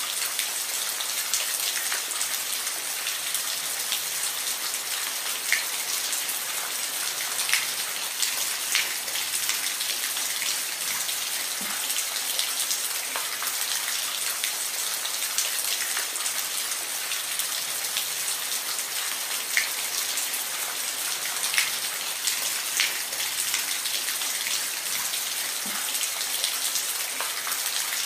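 Steady rain falling, a constant high hiss with individual drops ticking sharply on a surface here and there.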